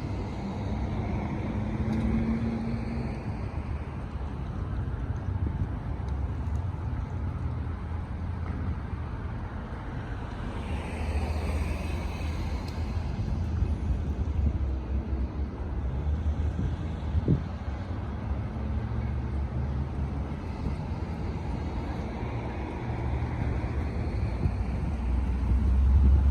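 Steady low rumble of a motor vehicle running, with a single sharp click about seventeen seconds in.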